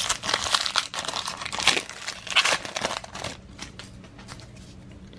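Trading-card pack wrapper being torn open and crinkled: loud crackling for about three seconds, then quieter rustling and small ticks.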